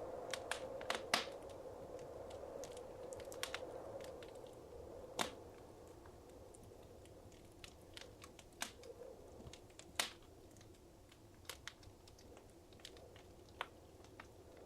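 Wood fire crackling: scattered sharp pops and snaps over a soft steady hiss that eases off around halfway. The loudest pops come about a second in, about five seconds in and about ten seconds in.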